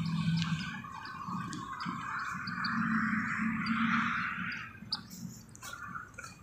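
Small birds chirping in short, high, repeated notes, over a rushing hiss that swells through the middle and fades about five seconds in.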